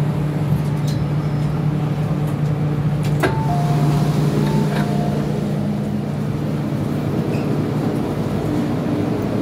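MTR M-Train electric multiple unit running between stations: a steady hum of traction equipment and wheels on rail. About three seconds in there is a click, then two short two-note beeps.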